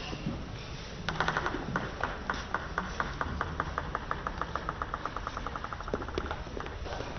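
A table tennis ball bouncing to rest, a run of sharp clicks coming faster and faster and growing fainter, starting about a second in and dying away near the end.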